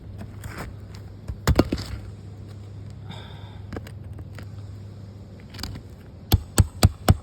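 Sharp taps on asphalt roof shingles over a steady low hum: a pair about a second and a half in, then a quick run of five at about four a second near the end.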